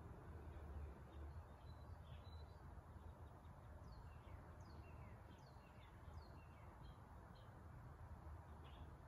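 Near silence: a low steady room hum, with faint bird chirps, a run of short falling notes, about four to six and a half seconds in.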